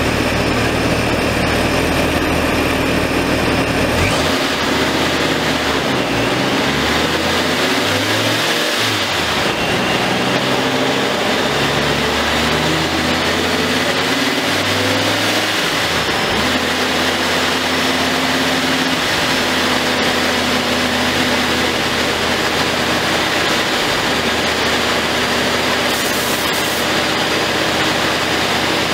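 Supercharged Gen V Dodge Viper's 8.4-litre V10 running on a chassis dyno. It idles at first, then from about four seconds in it is driven up through the gears, the revs climbing and falling back at each shift. From about sixteen seconds in it holds a steady speed in gear.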